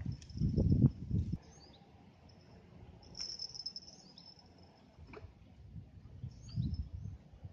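Insects trilling outdoors, a steady high-pitched note, with a few short bird chirps and a low rumble in the first second.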